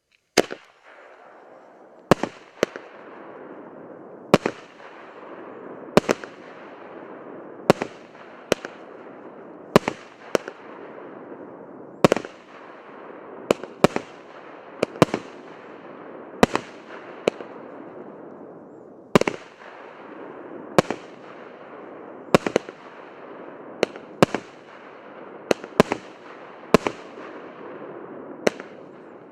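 Orion "Forward" OTS 5090 multi-shot firework battery firing, starting about half a second in: a string of sharp bangs about every one to two seconds, sometimes two in quick succession, over a continuous rushing noise.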